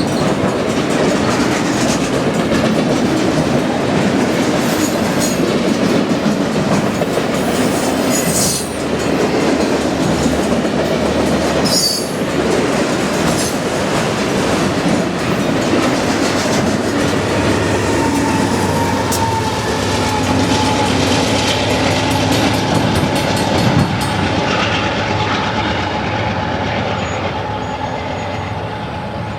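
BNSF autorack freight cars rolling past, a steady rumble and clatter of steel wheels on the rails. A faint high wheel squeal comes in past the middle, and the sound grows quieter near the end.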